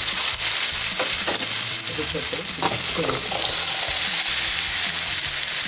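Diced, pre-cooked potato and carrot tipped into hot cooking oil in a frying pan and sizzling steadily, with a few light knocks in the first three seconds as pieces land.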